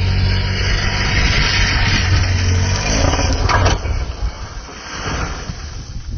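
Rally car engine running hard at a steady high pitch, with loud tyre and gravel noise over it; about three and a half seconds in there is a brief sharp burst of noise, after which the engine note fades and the sound drops.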